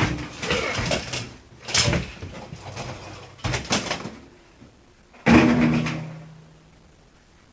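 A series of bangs and clatters from the refrigerator's cabinet parts being worked on, four in all, the last a loud bang about five seconds in whose metallic ring dies away over about a second.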